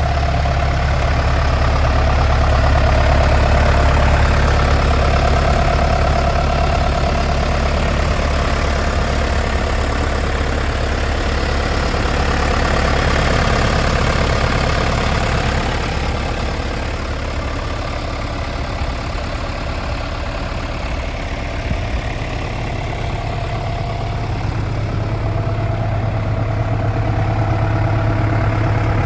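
John Deere 5620 tractor's diesel engine idling steadily.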